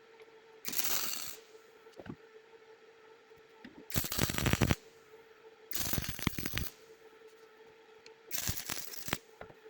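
Four short bursts of rattling, clattering noise, each lasting about a second, over a faint steady hum, typical of metal parts being handled or worked in a workshop.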